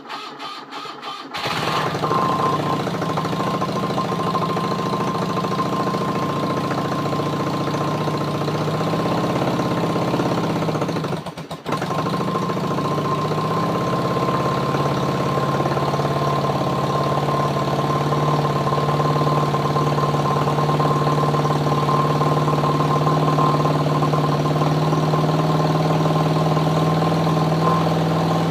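BMW R75/5 air-cooled flat-twin boxer engine cranked on its electric starter, catching after about a second and then running steadily with the carburettor enrichers up for a cold start. About eleven seconds in it falters for a moment and picks up again, then settles to a slightly lower speed.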